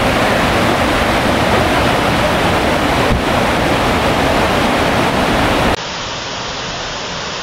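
High Falls, a waterfall running in heavy flood after a big rainstorm: a loud, steady rush of falling water. Almost six seconds in it drops suddenly to a quieter, duller rush of water.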